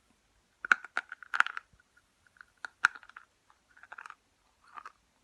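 Slate chips being bitten and chewed close to the microphone: a cluster of sharp, brittle crunches in the first three seconds, then softer chewing.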